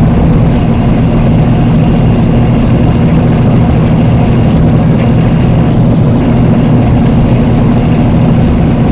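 Heavy vehicle engine running steadily, a constant low drone with no change in pitch.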